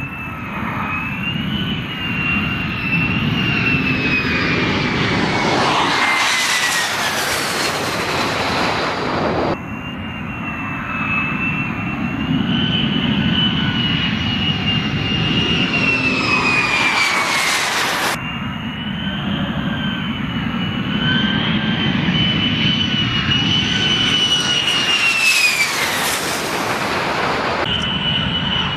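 F-35B Lightning II jets, each with its F135 turbofan engine, passing close overhead on approach: a loud jet roar with a high whine that drops in pitch as each jet goes by. Three passes, each building to a peak and then breaking off abruptly.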